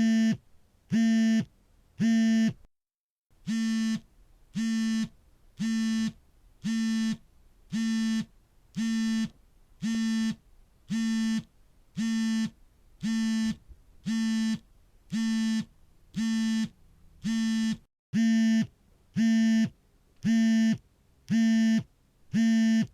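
Smartphone vibration motor buzzing in short, evenly spaced pulses, about one a second, the vibrate pattern of an incoming call. Each pulse is a steady pitched buzz, with one brief pause about three seconds in.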